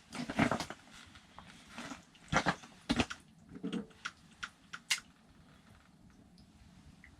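Close handling noise: a run of clicks, knocks and short rustling scrapes over about five seconds, then it stops.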